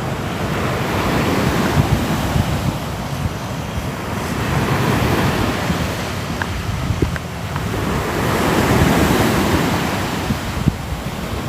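Ocean surf: waves breaking and washing in, the rush swelling and falling back in slow surges every few seconds.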